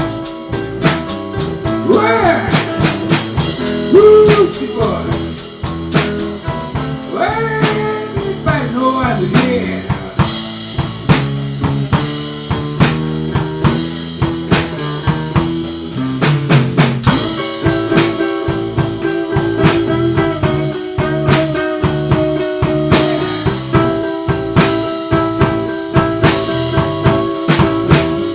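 Live blues band playing an instrumental stretch: a drum kit keeps a steady beat under bass and chords. A lead line with bending notes runs through the first ten seconds or so, then the band settles into held chords.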